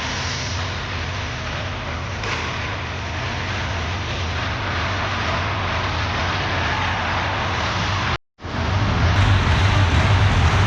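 Steady ice-hockey rink noise, with no clear single event. It drops out completely for a fraction of a second about eight seconds in, then comes back louder with a low hum.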